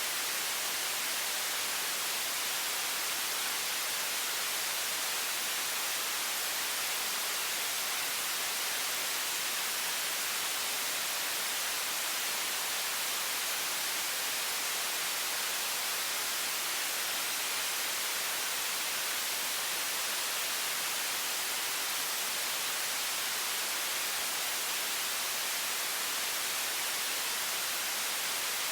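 High-pressure water stream from a faucet, a steady, even hiss that is strongest in the high range and does not change.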